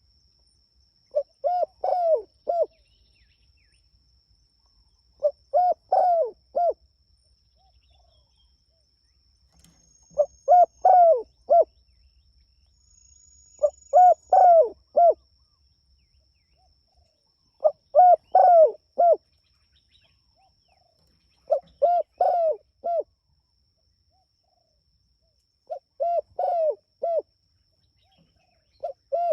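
Spotted dove (tekukur) cooing: a short phrase of several coos repeated about every four seconds, about seven times. A faint steady high-pitched tone runs behind it.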